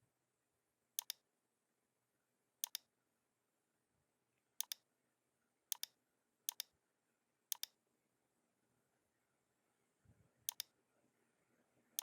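Computer mouse clicking: seven quick double clicks, spaced a second or two apart, against near silence.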